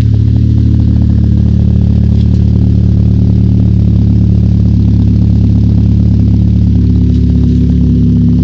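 Seat Leon 1.8 20vT turbocharged four-cylinder engine idling steadily at an even pitch.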